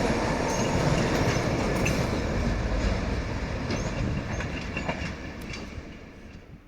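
Freight train passing on the rails: wagon wheels rumbling and clattering over the track, with scattered clicks and short high squeaks, the noise fading steadily as the train moves away.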